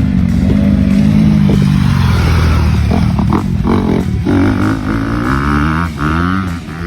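Motocross dirt bike engine revving hard and easing off, its pitch climbing again and again through gear changes in the second half.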